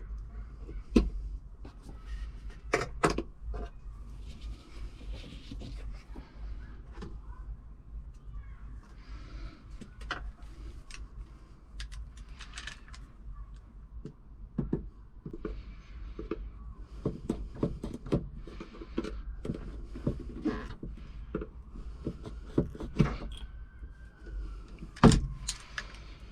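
Scattered knocks, clunks and clicks, irregularly spaced, over a steady low hum; the loudest knocks come about a second in and near the end.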